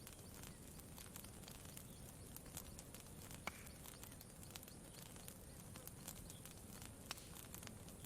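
Campfire crackling faintly: scattered sharp pops and ticks, the loudest about three and a half seconds in, over a low steady rumble.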